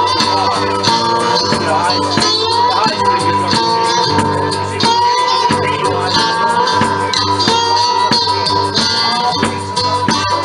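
Live blues band playing an instrumental passage: a steady rhythmic accompaniment under a sustained lead line that bends in pitch.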